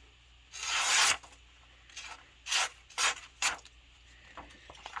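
A knife blade making several short rasping, scraping strokes: one longer stroke about a second in, then three or four quick ones in the middle.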